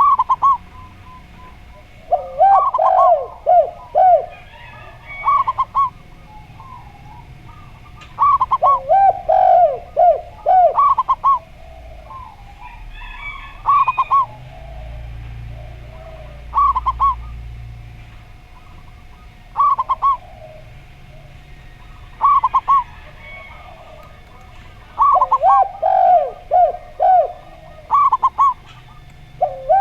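Zebra dove and spotted dove cooing: repeated phrases of quick, rolling coos every few seconds, some as single notes and some as longer runs. Faint chirps of small birds sound higher up.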